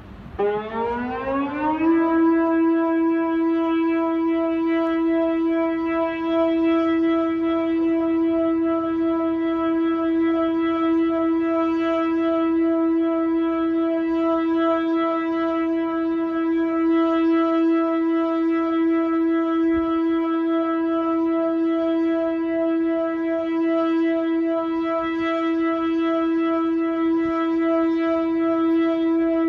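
A loud, siren-like tone that rises in pitch over the first two seconds, then holds one steady pitch without a break.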